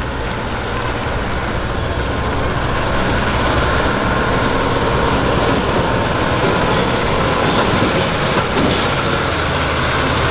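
Diesel semi truck engine at full throttle, pulling the weight sled in a truck-pull run: a loud, continuous engine sound that grows gradually louder through the run.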